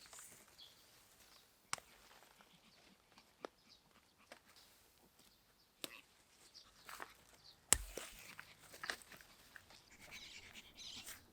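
A few sparse sharp clicks and knocks over faint background, the loudest a knock with a dull thud about three-quarters of the way through.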